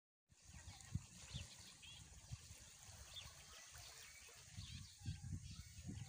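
Faint outdoor ambience: small birds chirping now and then, over irregular low thumps and rumble and a faint high hiss.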